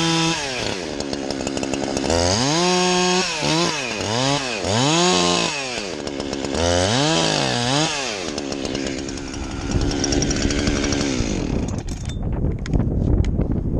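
Two-stroke chainsaw revved up and down several times, its pitch climbing and dropping with each blip of the throttle. It then runs rougher under load, as when bucking a trunk into rounds, and cuts off about twelve seconds in, followed by low knocks.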